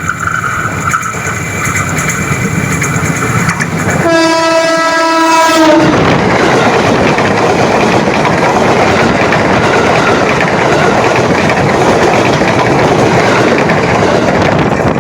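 A train approaching and sounding its horn once for about two seconds, one steady note. Then the loud, steady rush of the train passing close by.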